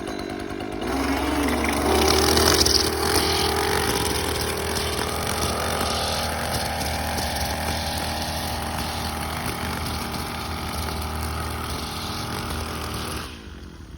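Small petrol lawn-equipment engine running under throttle: it revs up about a second in, then runs steadily, and falls away sharply near the end.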